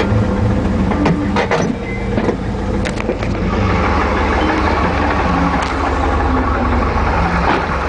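Isuzu NPR box truck's 5.7-liter gasoline engine idling steadily, an engine the owner says has a knock and needs repair. Several sharp clicks and clunks sound over it in the first few seconds.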